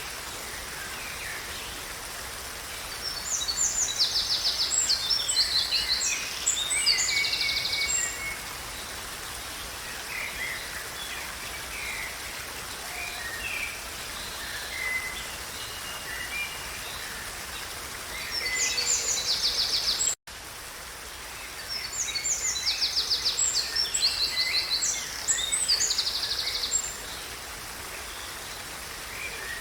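A songbird singing in bouts of rapid, trilled high phrases, three times, over a steady background hiss of running water or rain. The whole sound drops out for an instant about twenty seconds in.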